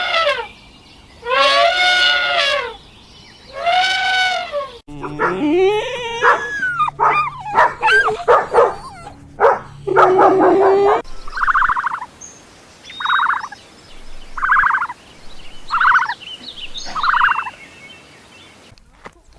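Animal calls in three back-to-back clips: first three drawn-out calls that rise and fall in pitch, then a stretch of wavering whines and glides, then six short calls about a second and a half apart.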